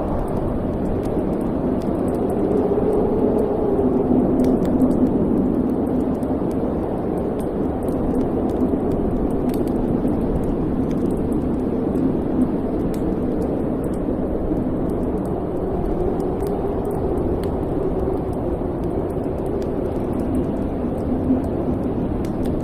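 Wood fire in a fireplace crackling: small scattered crackles over a steady low rumble that swells and eases slowly.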